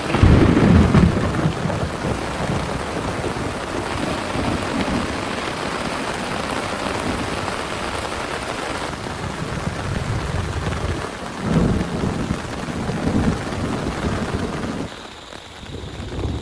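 Heavy rain falling steadily, with rumbles of thunder: a loud one right at the start and another about eleven seconds in. The rain drops suddenly quieter near the end.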